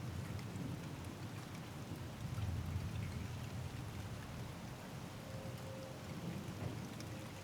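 Steady rain falling and pattering during a thunderstorm, under a low rumble of thunder that swells about two seconds in and eases toward the end.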